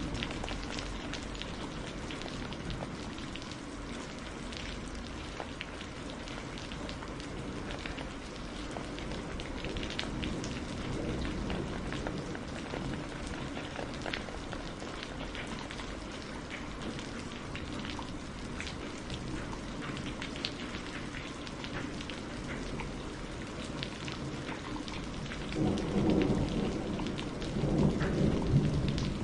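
Steady rainfall with many individual drops ticking on a surface. Low thunder rumbles in about 25 seconds in and swells through the last few seconds.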